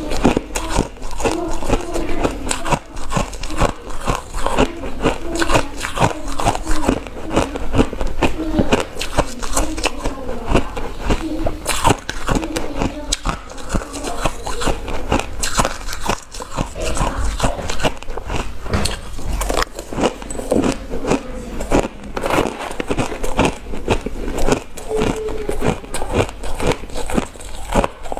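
Ice being bitten and chewed close to the microphone: a dense, continuous run of crisp crunches and crackles.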